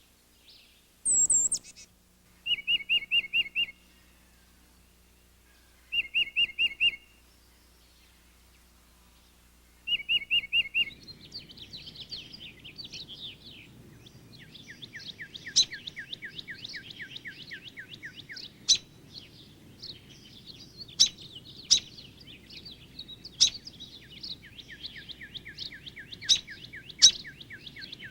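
Songbirds singing. First comes a rapid run of about six clear repeated notes, given three times about four seconds apart. Then several birds sing at once: a twittering chatter, a long even trill that comes twice, and sharp chip notes scattered throughout.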